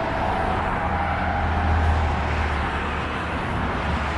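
Road traffic noise: a vehicle's low rumble swells about a second in and eases after about three seconds, over a steady background hiss.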